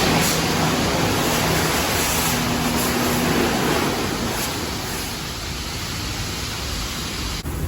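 Loud, steady rushing noise like wind blowing across a microphone, with a faint low hum under it for the first few seconds.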